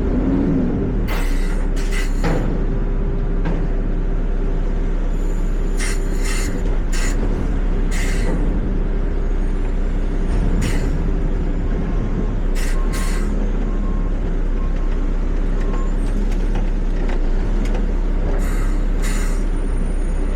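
Peterbilt 520 garbage truck's engine running steadily, with about a dozen short air hisses at uneven intervals, typical of the truck's air brakes being applied and released while manoeuvring.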